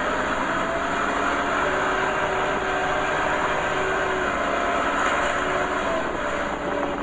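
Diesel engines of heavy earthmoving machinery running steadily under work, with a faint whine that drifts slightly in pitch.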